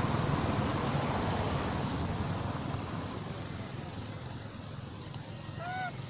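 Motor vehicle noise that slowly fades away, with one short squeaky call that rises and falls near the end.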